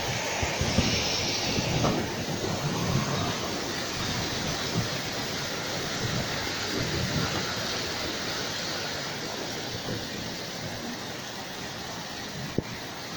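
Long rolling thunder rumbling over a steady hiss, slowly dying away, with a single sharp crack near the end.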